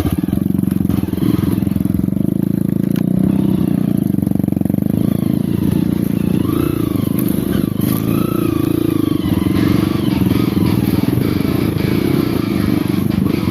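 Off-road motorcycle engine running steadily, with little change in revs.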